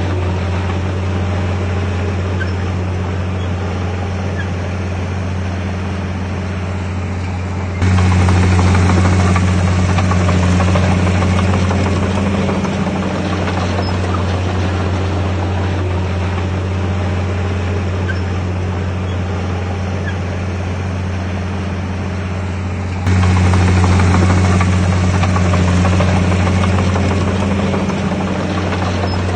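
Bulldozer's diesel engine running steadily under load, a deep drone. It jumps abruptly louder about 8 seconds in and again near 23 seconds, then eases back.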